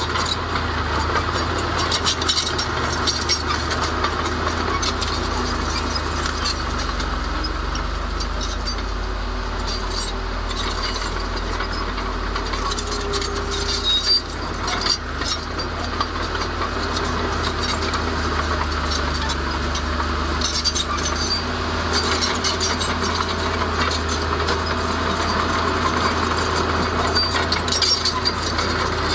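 Diesel engine of heavy earth-moving machinery running steadily under work, with scattered knocks and clinks.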